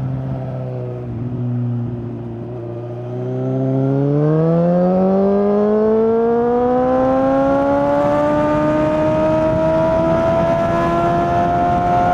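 2019 Suzuki GSX-S750's inline-four engine through a decatted Yoshimura SQ11 exhaust with no dB killer, running steadily for about three seconds, then accelerating in one gear, its pitch rising steadily to the end.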